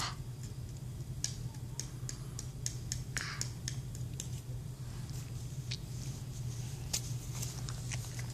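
Fireworks crackling: scattered short, sharp crackles at irregular intervals over a steady low hum.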